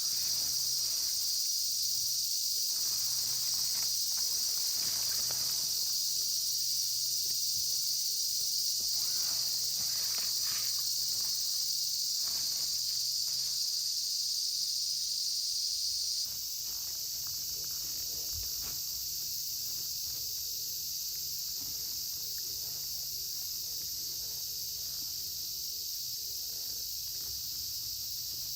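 Steady, dense chorus of insects chirring, with scattered light clicks and rustles of handling. The chorus changes abruptly and drops a little in level about sixteen seconds in.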